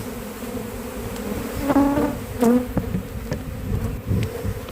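A swarm of honeybees buzzing all around: a steady, dense hum, with single bees whizzing close past the microphone. Several soft thumps come from bees bumping into the camera.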